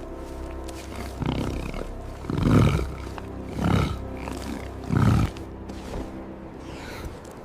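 A tiger growling in about four deep bursts a little over a second apart, the loudest about two and a half seconds in, over background music.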